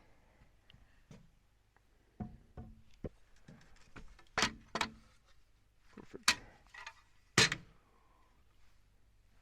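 A string of irregular knocks and clunks, like material and tools being handled and set down on a building job. They begin about two seconds in, and the loudest few come a little past the middle and toward the end.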